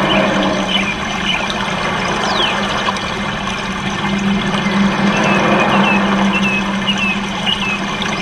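Short, high chirps from small cage birds come every second or so over a steady low hum and background noise, with one falling call about two seconds in.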